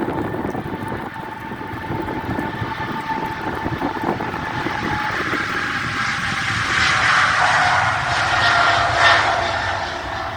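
Boeing 777-200ER jet engines passing, with a steady whine that slowly drops in pitch over a rushing noise that grows louder in the second half.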